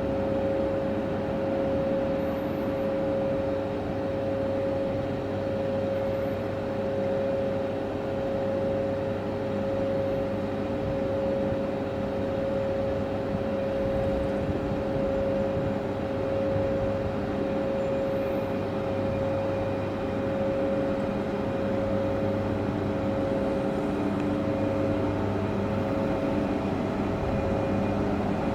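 Steady mechanical hum of a train, with one strong unchanging tone over a low drone and no change in pitch.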